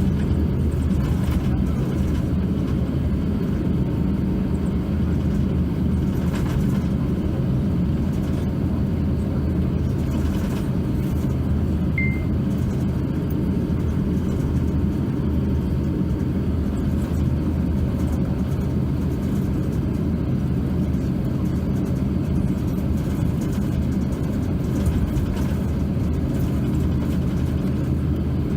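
Steady low rumble in the cabin of an Airbus A350-900 on the ground, its Rolls-Royce Trent XWB engines running at low power before takeoff, with a steady hum under it. A brief faint high beep sounds about twelve seconds in.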